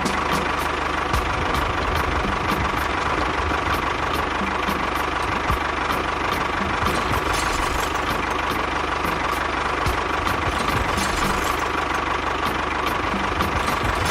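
A small engine running steadily at idle, with a fast even rumble and a steady high whine over it.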